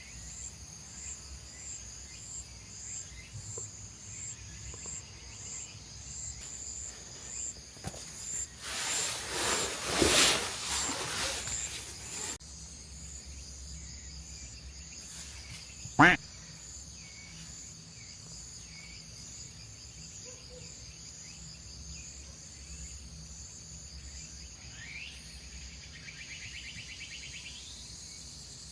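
Insects chirping steadily in the dark, with a high pulsing chirp about twice a second at first. About a third of the way in, a rushing swell rises and fades. About halfway through comes a single sharp, loud snap.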